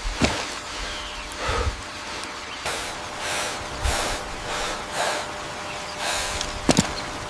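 A person breathing hard in short, repeated breaths, with a few dull thumps.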